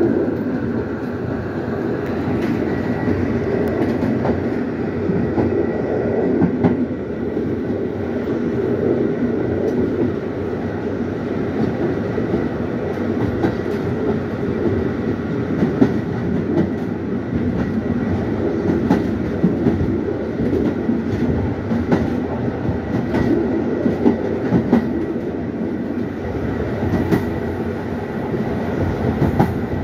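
Passenger train running along the track, heard from its rear end: a steady rumble of wheels on rails with scattered, irregular clicks as the wheels pass over rail joints, and a faint steady whine.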